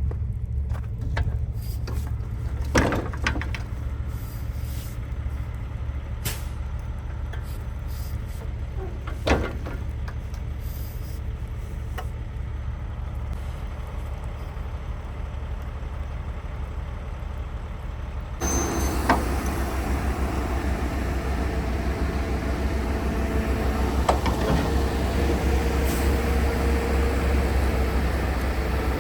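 A logging truck's diesel engine running with a steady low drone, with a few sharp knocks along the way. About two-thirds of the way through, the sound abruptly turns louder and hissier.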